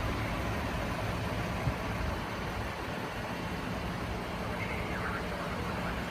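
Steady low rumble of outdoor vehicle and traffic background noise, with a brief faint high chirp about five seconds in.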